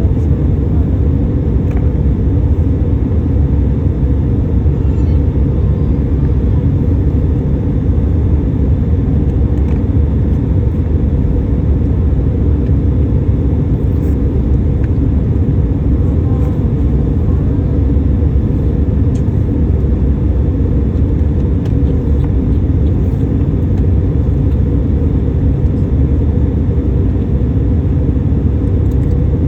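Boeing 737 in flight: steady low rumble of its engines and airflow.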